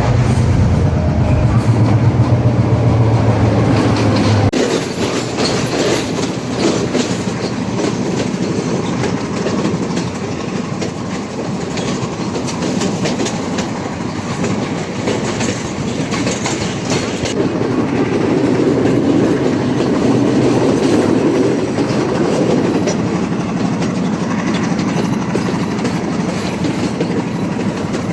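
Railway carriage running along the track, wheels clattering over rail joints with a steady rumble. A low hum underneath stops abruptly about four seconds in.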